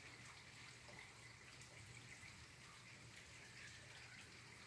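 Near silence with faint light rain: a soft even hiss with scattered small drip ticks.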